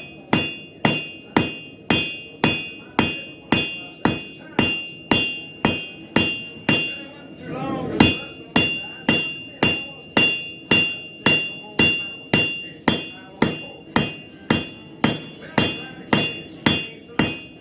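Hand hammer striking a railroad spike on an anvil, drawing out a tomahawk blade: steady blows about three a second, each with a ringing tone from the anvil. There is a brief break about seven seconds in, then a heavier blow and the rhythm resumes.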